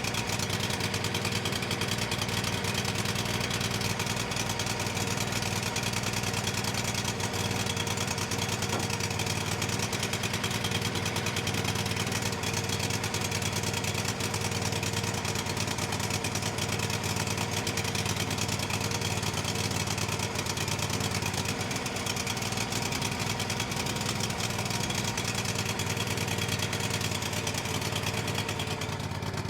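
Kohler CH25 25 hp V-twin engine on a hydraulic power pack, running steadily on a newly fitted replacement carburetor.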